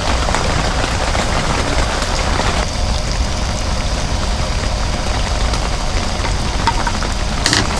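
Heavy rain falling steadily, an even hiss over a low rumble; the higher hiss eases about a third of the way in, and a sharp click or two sounds near the end.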